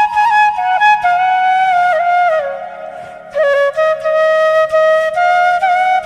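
Background music: a solo flute playing a slow melody of held notes with slides between them, over a low steady drone. The melody pauses briefly about halfway through.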